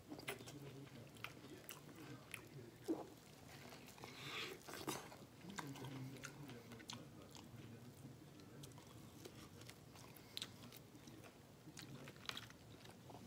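A person chewing and lip-smacking wet, sauce-soaked seafood boil food. There is a string of faint clicks and a few sharper bites; the loudest comes about three seconds in.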